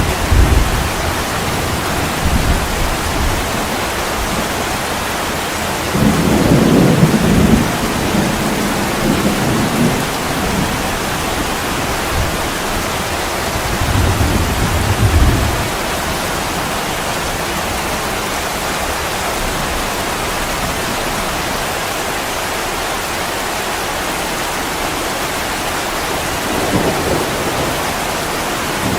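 Heavy rain falling steadily, with low rolls of thunder about six seconds in, again around fourteen seconds, and once more near the end.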